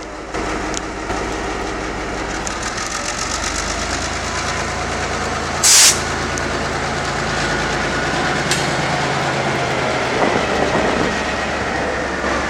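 G22 diesel locomotive train running on the track, with a steady low engine hum and rhythmic rail clatter. A brief, loud burst of noise comes about halfway through.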